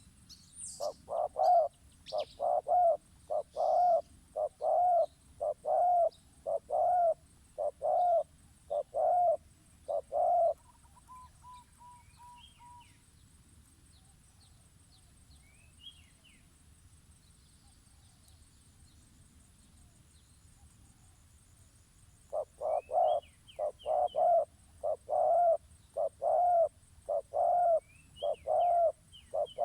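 Bird lure call: a low, cooing hoot repeated about one and a half times a second in a long run. It stops about ten seconds in and starts again after a long pause, with a short series of thinner, higher notes and faint high chirps from small birds in the gap.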